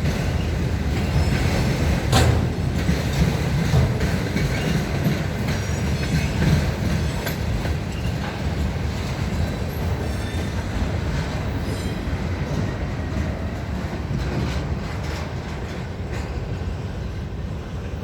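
Union Pacific mixed freight train rolling past, a steady low rumble of wheels on rail with a sharp clank about two seconds in. It slowly fades toward the end.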